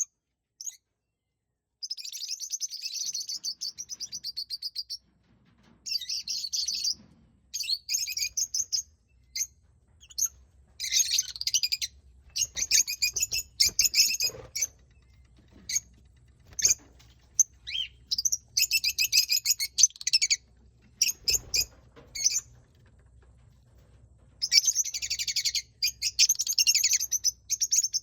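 Pet lovebirds and cockatiels chirping, in spells of rapid, shrill chatter a few seconds long with single chirps in between.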